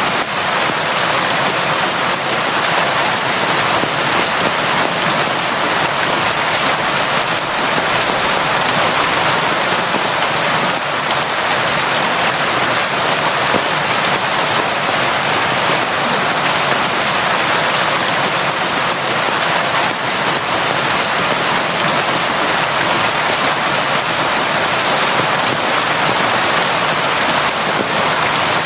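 Steady, constant rain: a dense, even hiss of drops with no thunder or other events.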